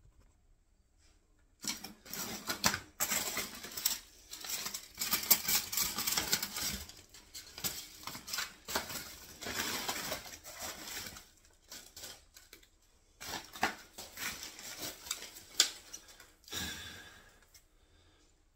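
Rustling, crackling and clattering of old papers and rubbish being rummaged through by hand, starting about a second and a half in, with a brief pause before the handling resumes and a last short burst near the end.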